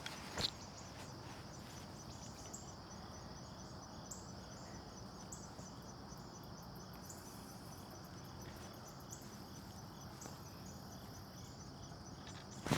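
Faint, steady insect chirring in the background, with a single soft knock about half a second in.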